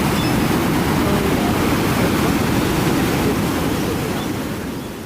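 Floodwater pouring over a weir that is overflowing after heavy rain, a steady rushing of water that fades out near the end.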